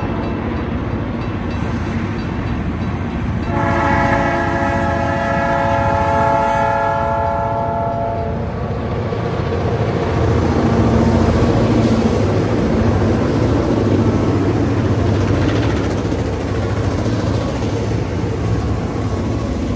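Roberval and Saguenay diesel freight train at a grade crossing: the lead locomotive's horn sounds, a blast trailing off about a second in, then one long blast from about four to eight seconds in. After it the locomotives' diesel engines run loudly past, with the rumble of wheels on the rails.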